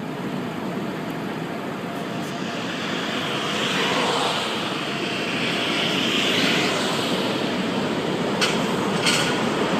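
A steady, loud rushing roar that swells about four and six seconds in, with two sharp knocks near the end.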